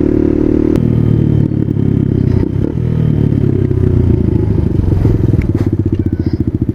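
Motorcycle engine heard from the rider's seat, running steadily. About a second in the engine note drops, and near the end it settles into an even, quick putter at low revs.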